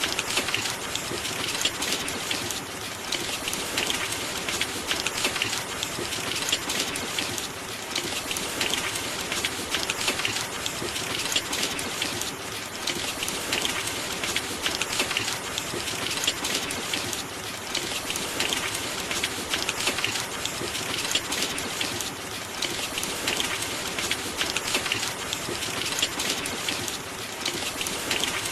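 Steady rain falling, a dense patter of drops on hard surfaces that swells and eases slightly every few seconds.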